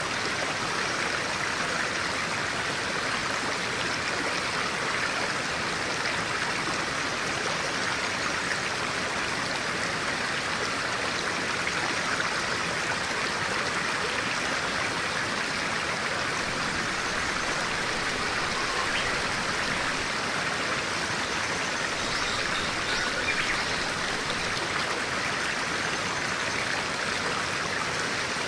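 A clear stream of water flowing and splashing steadily over rocks, a constant rushing murmur.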